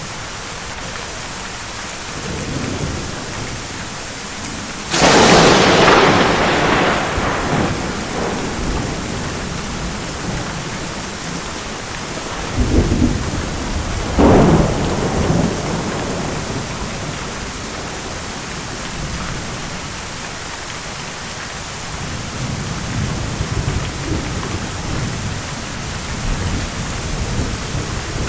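Thunderstorm with steady heavy rain. A sudden, loud thunderclap about five seconds in fades over several seconds, two smaller cracks come around the middle, and low thunder rumbles near the end.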